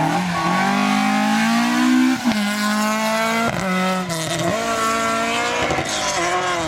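Rally car engine under hard acceleration on a special stage, the revs climbing and then dropping at gear changes about two seconds in and again about a second later.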